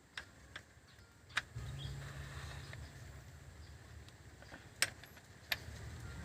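Hand tools clinking: about five sharp, separate clicks as sockets and a wrench are handled and fitted to bolts, over a low steady rumble that grows louder a little way in.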